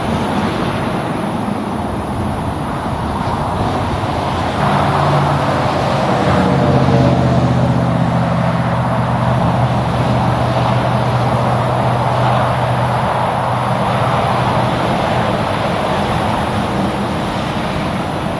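Semi truck driving past over steady road traffic noise. Its engine drone comes in about five seconds in, is loudest a couple of seconds later and fades toward the end.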